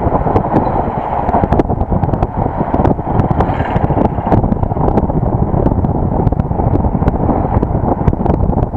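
Heavy wind buffeting an action camera's microphone while driving, a constant loud rumble with frequent crackling pops, over the vehicle's road noise.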